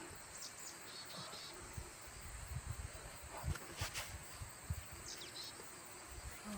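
Faint, steady high chirring of crickets and other autumn insects, with soft low thumps and a few sharp clicks, one about four seconds in.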